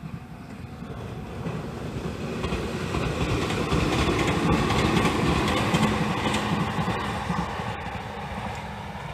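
Meitetsu electric commuter train passing close by, with wheel and rail running noise. It swells to its loudest about halfway through as the train goes past, then fades as it moves away.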